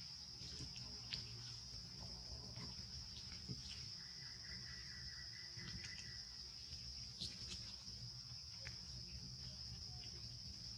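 Steady high-pitched insect chorus, like crickets, droning without a break, with a few faint clicks scattered through it.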